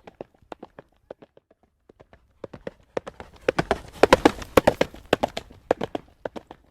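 Horse hooves trotting on a hard road surface: a steady clip-clop that grows louder and quicker-packed near the middle, then eases off again.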